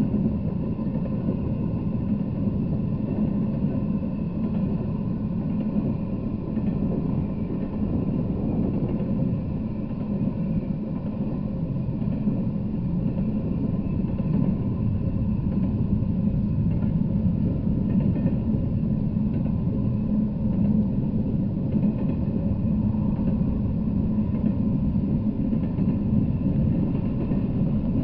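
Intermodal freight train rolling past, its wagon wheels on the rails making a steady rumble that never lets up.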